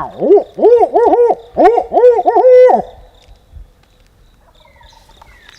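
Barred owl 'who cooks for you' hooting, blown loud and close on an owl locator call to make a turkey gobble: about eight rising-and-falling hoots over nearly three seconds, the last one drawn out.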